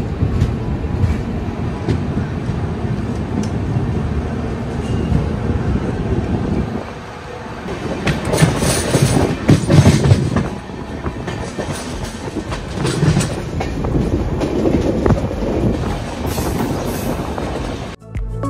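Passenger train running at speed, heard from the open doorway of a coach: a steady rush of wheels on the rails, with louder surges a little past the middle.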